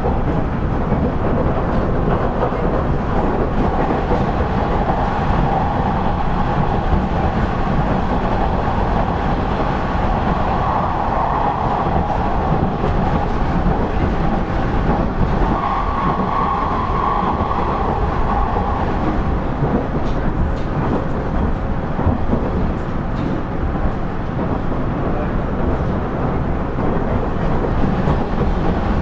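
KiHa 110 series (KiHa 112) diesel railcar under way: a steady rumble of the diesel engine and wheels on rail. A humming tone shifts higher about halfway through and fades a few seconds later.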